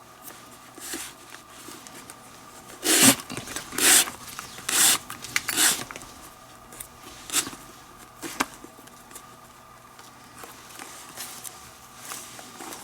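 Leather lace being pulled hard through tight lace holes of a baseball glove during relacing: a run of rubbing swishes about three to six seconds in, then two short ticks.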